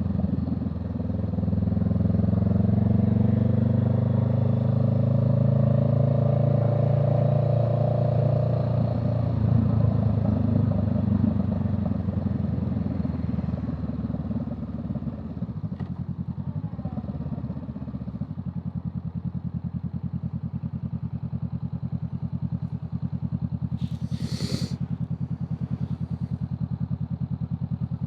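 A vehicle engine under throttle, rising in pitch for about the first nine seconds, then easing off. After that it settles into a steady, evenly pulsing low run. A short high-pitched sound comes near the end.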